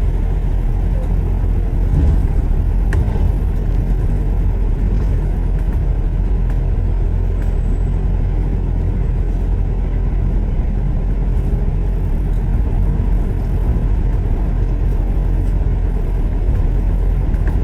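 Steady low rumble of a road vehicle driving in city traffic.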